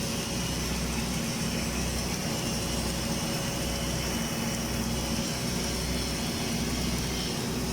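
Steady machine hum with a constant hiss from the welding equipment of an automatic girth welding (AGW) set-up, with no change in pitch or level.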